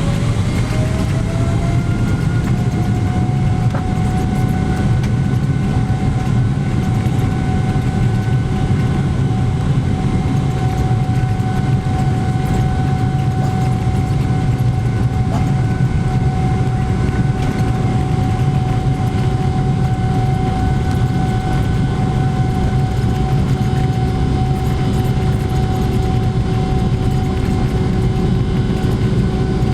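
Boeing 777-300ER's GE90-115B engines running at high thrust during takeoff: a steady whine that rises in pitch over the first two seconds and then holds, over a heavy constant rumble.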